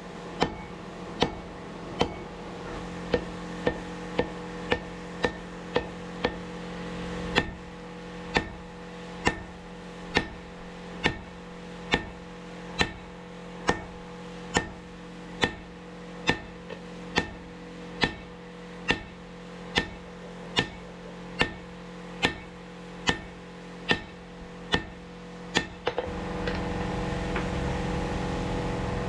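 Hand hammer forging hot Damascus steel on an anvil: sharp ringing blows, about one a second, over a steady hum. About 26 seconds in the hammering stops and a louder steady noise takes over.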